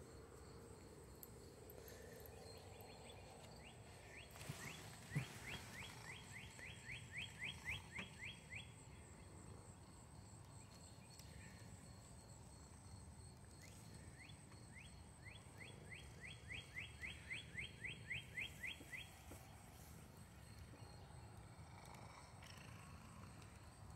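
A bird singing faintly twice, each song a run of a dozen or more quick repeated clear notes, about four a second, lasting four to five seconds. Underneath, a faint steady high chirring of insects.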